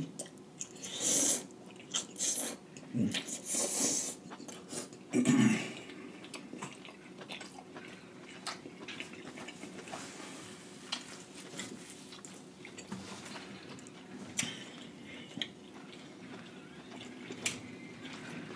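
Close-miked chewing and lip-smacking of a person eating saucy lobster in butter sauce, loud and wet for the first few seconds, then softer mouth clicks and finger-licking.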